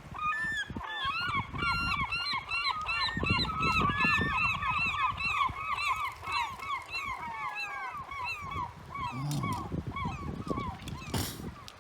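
A flock of gulls calling, many short arched cries repeated and overlapping in a dense chorus that thins out and stops near the end.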